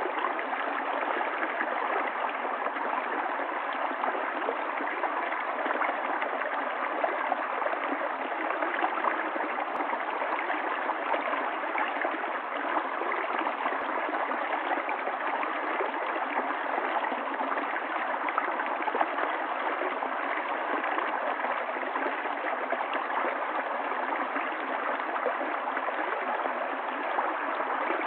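Running water of a stream, flowing steadily with no change in level.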